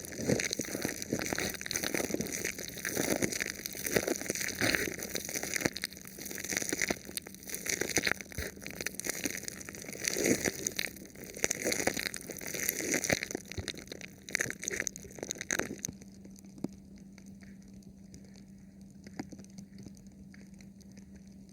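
Thin plastic film over a microphone being rubbed and touched, crinkling and crackling in repeated swells. About 16 seconds in, the handling stops and only faint ticks and a low steady hum remain.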